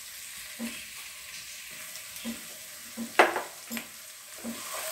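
Chicken and sliced onions sizzling in sauce in a pot, stirred with a wooden spatula, with one sharp knock of the spatula against the pot about three seconds in.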